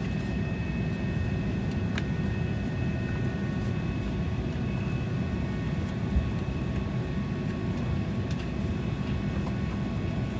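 Steady cabin noise inside an Embraer E190 airliner: a dense low rumble with several thin, steady whining tones above it. There is a light click about two seconds in and a short low thump about six seconds in.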